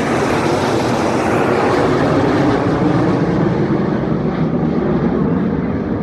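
Jet aircraft flying past in an air-show pass: a loud, steady rushing engine noise whose hiss gradually fades toward the end as the plane draws away.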